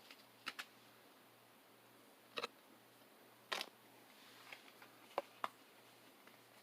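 Handling of trading cards and their packaging: a few short clicks and taps, with a brief scrape a little past the middle, over a faint steady hum.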